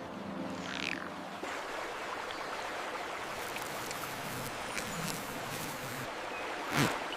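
Steady rushing outdoor ambience, with a brief louder swell near the end.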